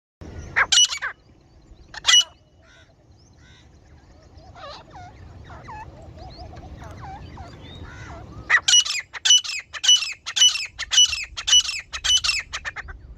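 Grey francolin calling: two loud sharp calls at the start, softer chattering calls through the middle, then a fast run of loud repeated calls, about three a second, over the last four seconds. It is a female grey francolin's call, the kind used as a lure to draw partridges when hunting.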